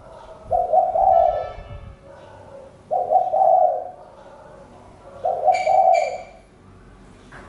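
Spotted dove cooing: three low coo phrases, each about a second long, repeated about every two and a half seconds.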